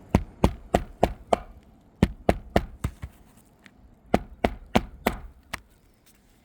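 Hammer driving a roofing nail through an asphalt shingle. It comes in three runs of quick, sharp blows, about three a second, with short pauses between the runs.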